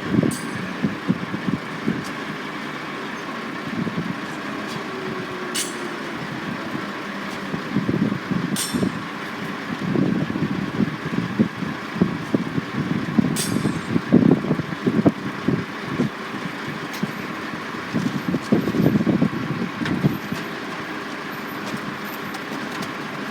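Construction-site noise: heavy vehicle and machinery engines running, swelling and easing several times over a steady hum, with a few short sharp clicks or clanks.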